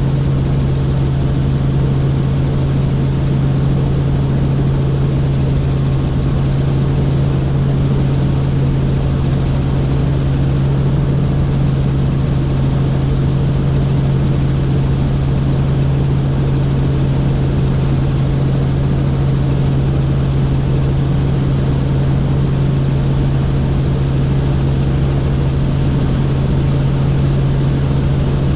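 Helicopter in flight, heard from inside the cabin: a loud, steady hum of rotor and turbine with a strong low drone that does not change.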